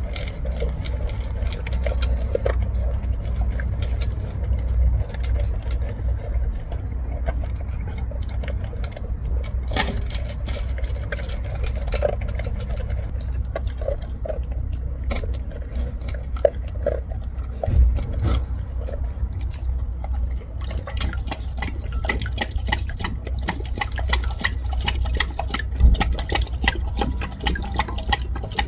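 Labrador retriever lapping water from a bowl: a long run of quick, wet laps and splashes. Two louder thumps stand out, one about 18 seconds in and one about 26 seconds in.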